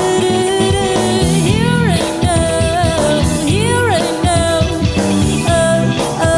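Funk rock band playing live. A lead line slides up and back down in pitch every couple of seconds over steady bass notes and drums.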